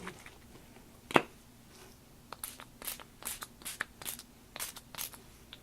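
Fireworks ink spray bottle pumped in quick squirts: about ten short spritzes over roughly three seconds, after a single click about a second in.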